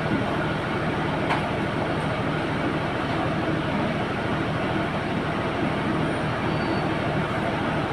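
A running engine: a loud, steady drone with a low hum that does not change.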